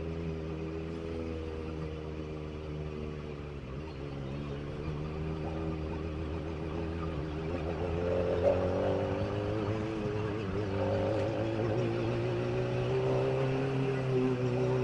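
Kawasaki ZX-25R inline-four engine running at low, fairly even revs while riding. Its pitch wavers slightly and rises a little in the second half.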